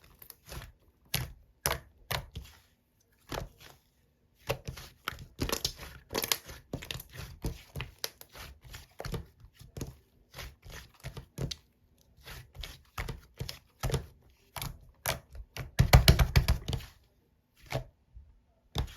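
Slime being squeezed and poked by hand, making irregular sticky clicks and crackling pops, with a dense, louder run of them about sixteen seconds in.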